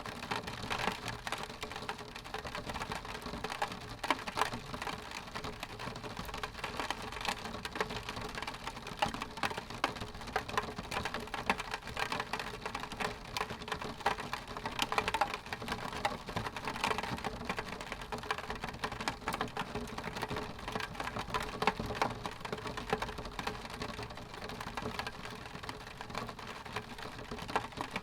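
Rain pattering on window glass: a steady patter of drops ticking against the pane.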